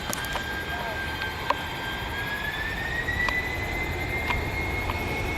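Jet aircraft engines spooling up: a steady whine rises in pitch about two seconds in while a low rumble builds beneath it, with a few scattered sharp clicks.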